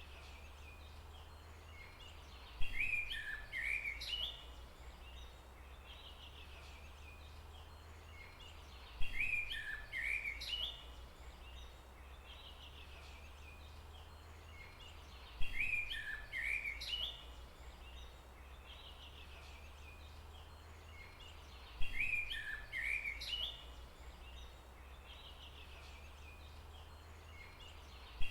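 A songbird's short chirping phrase, the same each time, repeating about every six and a half seconds, four times, each opening with a sharp click. A steady low rumble runs underneath.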